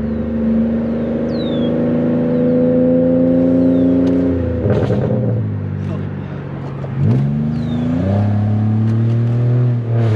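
Straight-piped Pontiac Bonneville 3800 V6 exhaust under load, with a droning howl around 3100 rpm that climbs slightly in pitch. About four and a half seconds in the note breaks up and drops; it rises again around seven seconds and settles into a lower steady drone.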